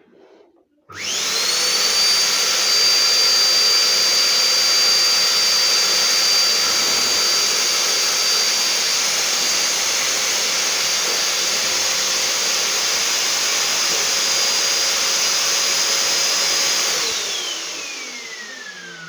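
Samsung SC4140 1600-watt vacuum cleaner motor switched on about a second in, spinning up quickly to a loud, steady high whine. It runs for about sixteen seconds, then is switched off and winds down with a falling whine near the end.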